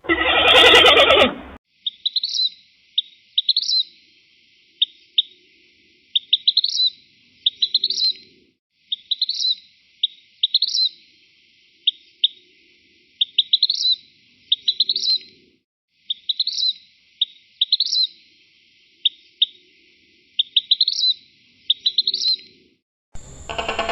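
A bird calling over and over in high, short phrases: a few sharp clicks or chips followed by quick hooked whistled notes, each phrase a second or so apart. At the very start, a loud pitched call lasting about a second and a half comes before the bird calls.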